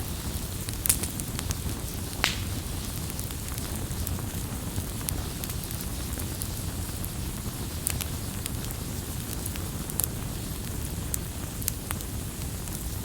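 Wood campfire burning with a low steady rumble and scattered sharp crackles and pops, the loudest about one and two seconds in.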